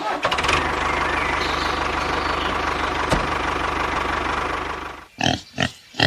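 Engine idling with a fast, even knock. It dies away about five seconds in, and a few short sounds follow.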